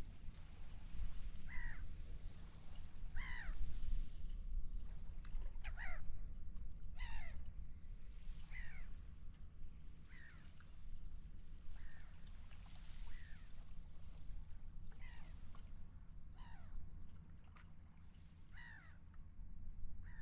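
Seagulls calling: about a dozen short cries, each falling in pitch, repeated every second or two. A steady low rumble of wind and sea runs beneath them.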